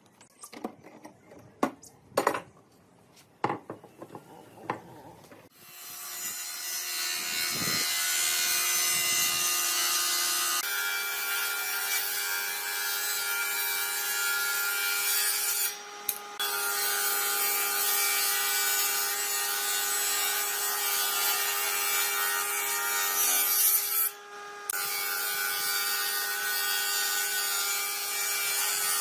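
A few sharp knocks and taps, then an electric power tool cutting or abrading wood from about five seconds in: a steady motor whine under a loud rasping noise that eases off briefly twice.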